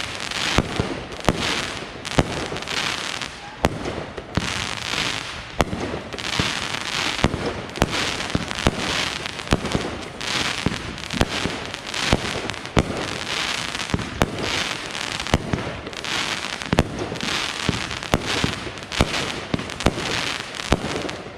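Backyard consumer fireworks going off in a continuous barrage: many sharp bangs, one after another, over steady crackling and hissing.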